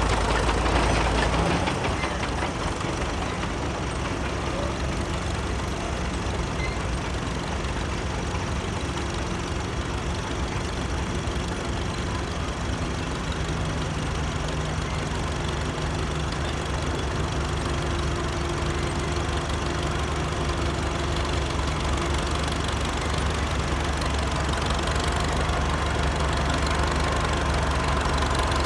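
Antique tractor engine running steadily at low speed, a continuous low engine rumble that eases slightly about a second and a half in.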